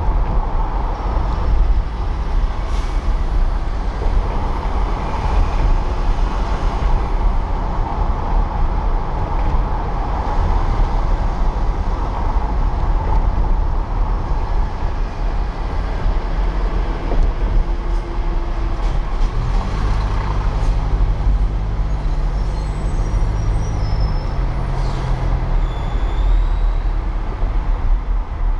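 City street traffic: a steady low rumble of engines and tyres. About two-thirds of the way in, a nearby engine drones at a steady pitch for around five seconds.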